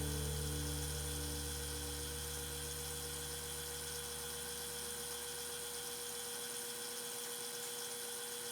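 A steady mechanical hum. Its deepest part fades away about halfway through, leaving a thinner, steady tone.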